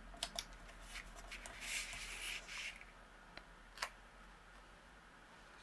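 Paper and cardstock pieces being handled and slid into place: faint rustling with a few light taps, and a longer rustle about two seconds in.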